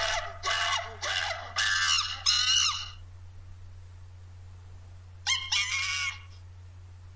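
Monkey calls: a quick run of about five high, shrill calls with sliding pitch, a pause of a couple of seconds, then two more calls.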